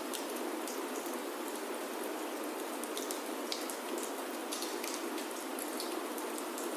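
Steady rain falling on a wooden chalet roof, with many small sharp ticks scattered through it.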